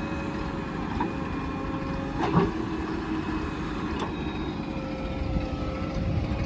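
JCB 3DX backhoe loader's diesel engine running steadily with a held whine, and sharp metallic knocks about a second in, a louder one near two and a half seconds, and another at four seconds.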